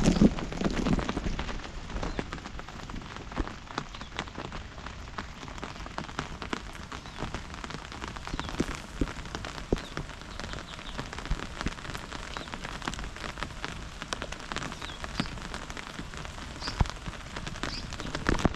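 Steady rain falling, with many separate drops tapping sharply on a surface.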